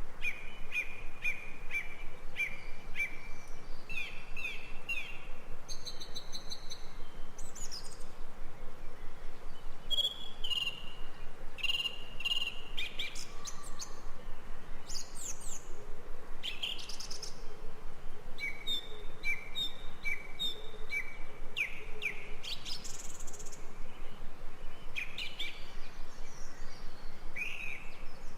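Jungle ambience of several birds calling. There are runs of short repeated chirps and quick whistled notes, over a steady background hiss.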